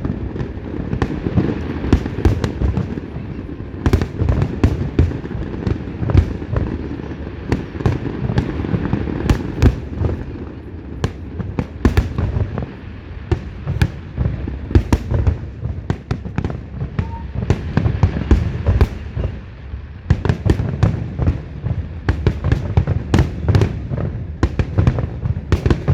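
Fireworks display: a dense, continuous barrage of shell bursts, deep rumbling booms overlaid with many sharp cracks in quick succession.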